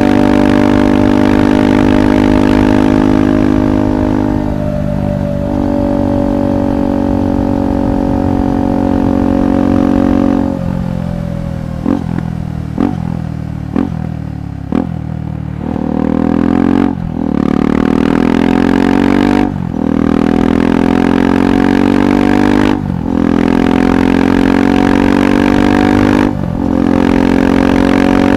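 KTM 390 Adventure SW's single-cylinder engine running through a Red Rooster aftermarket exhaust while riding: steady cruising, then it eases off and gives four quick throttle blips partway through. After that it accelerates hard, the pitch climbing and breaking briefly at each of four upshifts.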